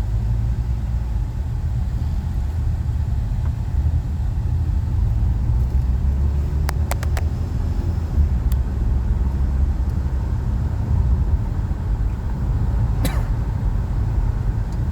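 Steady low rumble of a running vehicle, with a few sharp clicks about seven seconds in and one more near the end.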